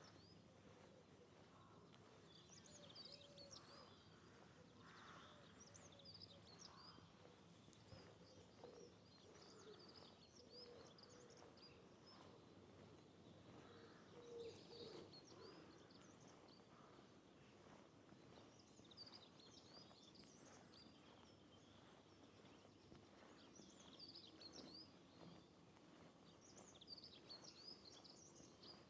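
Several small songbirds chirping and twittering in quick, high-pitched bursts that come and go, over faint steady background noise.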